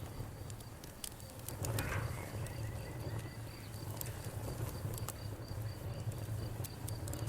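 Crickets chirping in a steady pulsing trill over a crackling wood fire, with scattered sharp pops and a low steady rumble underneath.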